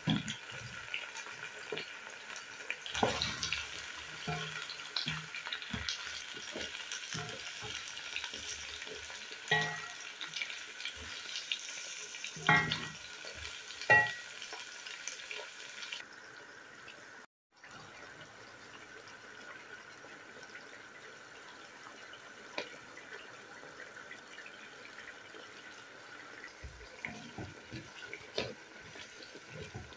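Chicken and chunks of red kuri squash frying in oil in a pot, with a steady sizzle and a wooden spoon stirring, knocking against the pot a few times in the first half. After a brief dropout about 17 seconds in, the sizzle goes on more quietly.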